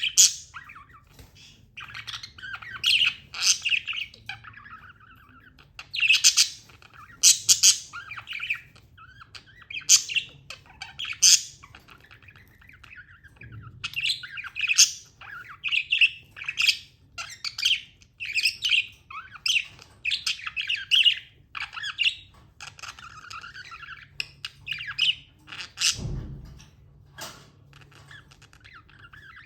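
Pet budgerigar (budgie) chirping: runs of short, high chirps with brief pauses between them, and a single low thump near the end.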